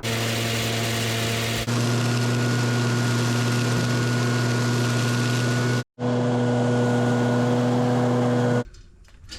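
A motor vehicle engine running steadily at idle, with an even, unchanging hum. It breaks off abruptly about six seconds in, resumes a moment later and stops suddenly near the end.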